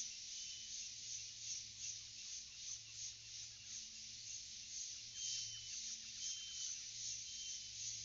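Forest ambience: a dense insect chorus pulsing a few times a second, with short bird whistles repeating about once a second.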